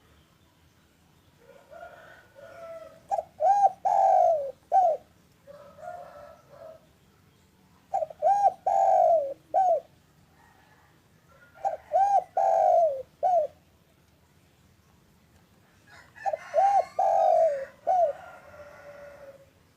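Spotted dove (derkuku) cooing: phrases of several rounded, rising-and-falling notes, repeated about four times with short pauses between them.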